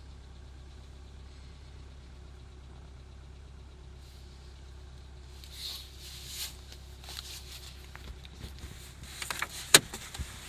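VW 1.4 TSI four-cylinder turbo petrol engine idling steadily, shortly after a cold start in about −29 °C frost. From about halfway there are scattered clicks and rustles, with one sharp click near the end as the loudest sound.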